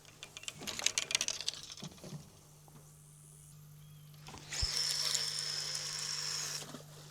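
Fishing reel whirring as line pays out: a fast clicking buzz for the first couple of seconds, then a steadier whir with a thin high whine later on.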